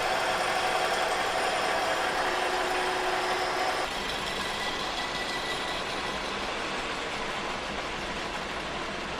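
Kearney & Trecker 2HL horizontal mill taking a 50-thousandths-deep face-milling cut on a cast iron straight edge, a steady cutting noise with a ringing pitch in it. About four seconds in the cutting sound drops away suddenly and the machine runs on more quietly.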